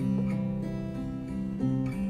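Acoustic guitar playing an instrumental passage of a slow song, held notes changing every half second or so, with no singing.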